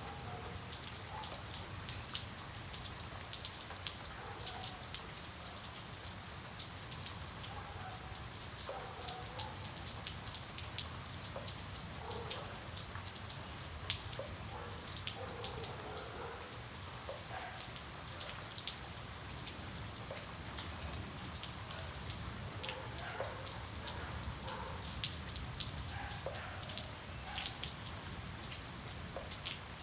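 Steady rain, with many separate drops landing close by as sharp ticks scattered through a continuous hiss.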